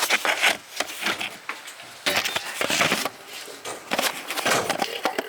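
Irregular scraping, rubbing and knocking of hand tools and parts being handled during work on a truck engine.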